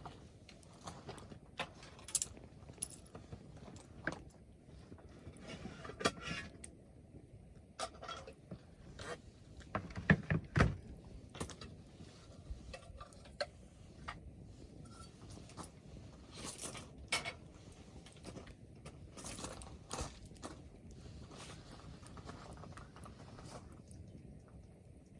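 Wood campfire crackling, with irregular sharp pops and snaps over a low hiss of burning, a cluster of louder pops about ten seconds in.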